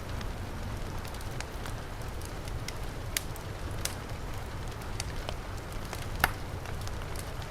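Wood fire crackling, with scattered sharp pops, the loudest about six seconds in, over the steady rush and low rumble of heavy rain.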